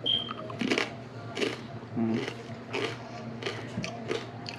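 Close-up chewing of a crunchy tortilla chip, with a crunch about every two-thirds of a second.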